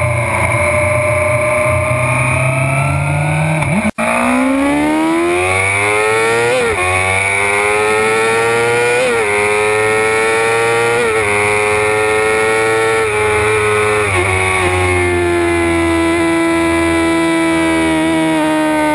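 Suzuki GSX-R 600 inline-four engine heard onboard at high revs under hard acceleration. Its pitch climbs and snaps down with four quick upshifts in a row, then holds and slowly falls. The sound breaks off for an instant about four seconds in.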